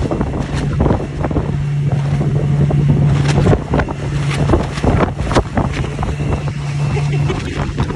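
An engine running steadily under strong wind on the microphone, with repeated sharp slaps and knocks. The engine is working against a gale of about 25 m/s.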